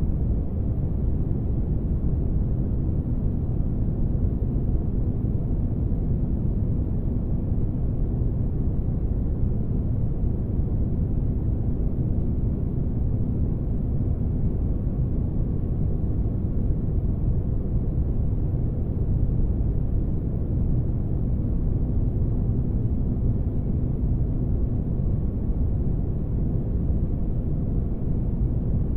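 Spaceship-interior ambience noise: a deep, steady rumble with almost nothing high in it, and a faint hum held on one pitch, unchanging throughout.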